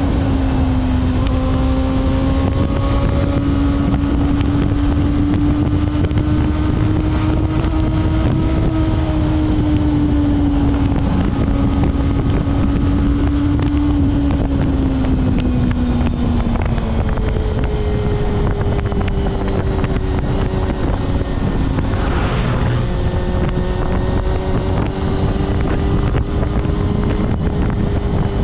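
Honda CBR250RR MC22's four-cylinder engine running at high revs while riding, with heavy wind noise on the helmet microphone. The engine note wavers steadily, sags a little past halfway, then settles on a higher note.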